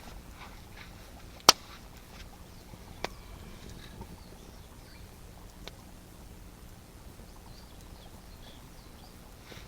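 Campfire wood popping: one loud sharp pop about a second and a half in, a smaller pop near three seconds and a faint one near six, over a low steady background with faint high chirps.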